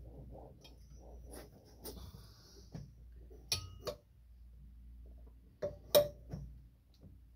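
Hand tools and small metal parts clinking and knocking during work on the engine, with two sharp metallic clinks about three and a half and six seconds in, the first ringing briefly.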